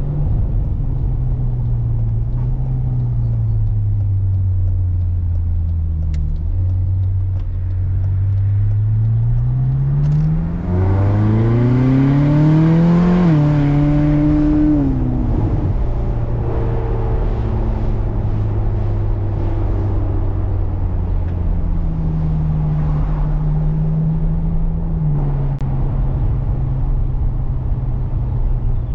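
Ferrari California's V8 engine under way, cruising with a steady note. About ten seconds in it revs up hard: the pitch climbs quickly for a few seconds and the sound grows loudest. About fifteen seconds in it drops back to cruising, with a smaller rise and fall in the engine note later on.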